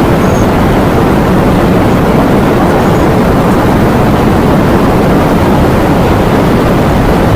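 Steady, loud rush of heavy rain and wind, heaviest in the low range, with no breaks or changes.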